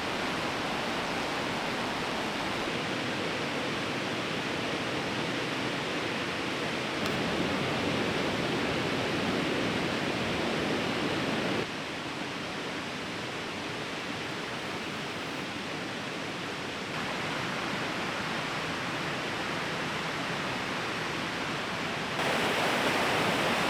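A fast river rushing, a steady full hiss of water with no breaks. Its loudness and tone change suddenly several times, a step up, a step down, and a step up near the end.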